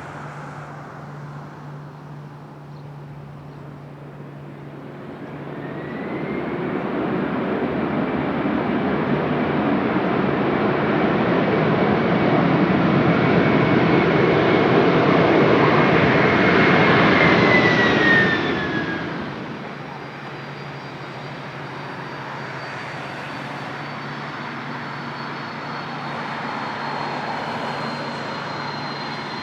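Jet airliner's engines growing louder as it approaches, with a steady high whine. About 18 seconds in the aircraft passes close by: the whine drops in pitch and the noise falls away quickly to a lower, steady level.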